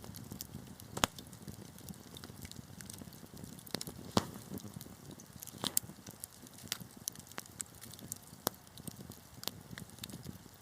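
Wood fire burning in a fireplace: a low steady rumble of the flames with irregular sharp crackles and pops of the burning logs, a few of them much louder than the rest.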